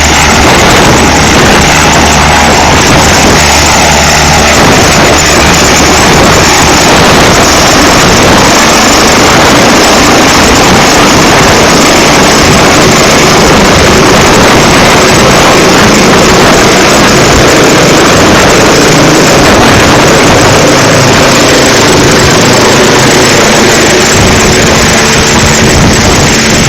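Helicopter rotor and turbine noise close by, loud and steady.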